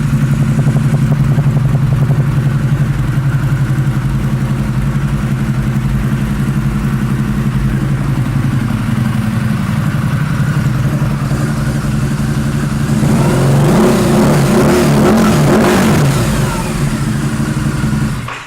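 Harley-Davidson V-Rod Night Rod Special's liquid-cooled V-twin running through Vance & Hines exhaust pipes. It idles steadily, is revved up for a few seconds about two-thirds of the way through, then is shut off suddenly near the end.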